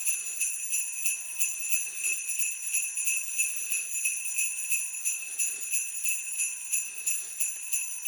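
Jingle bells shaken in a steady, even rhythm, ringing continuously.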